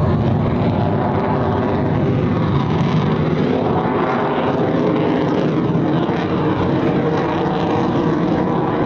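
Aircraft flying past overhead, a loud, steady engine noise whose pitch glides slowly as it passes.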